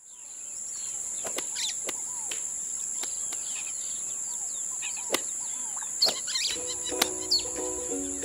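Birds chirping and calling over a steady high-pitched hum, with a few sharp clicks. Music with held notes comes in about six and a half seconds in.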